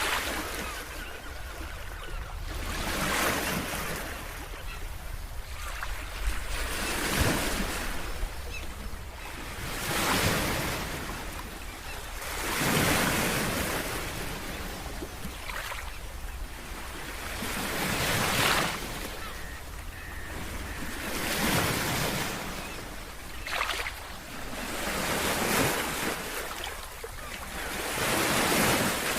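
Ocean waves breaking and washing on a shore, one surge after another every two to three seconds, over a steady hiss of surf.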